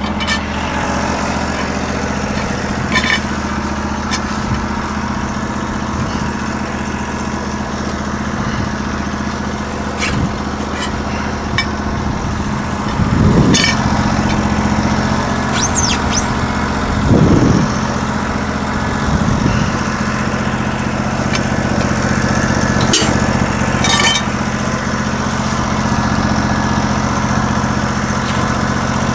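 Portable band sawmill's 16 hp engine running steadily, with a few scattered clicks and two brief low rumbles about halfway through.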